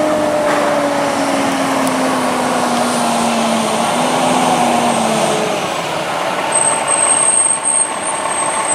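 Fire truck arriving: heavy truck engine running with a tone that slowly falls in pitch over the first few seconds, then a thin high hiss from about two-thirds of the way in.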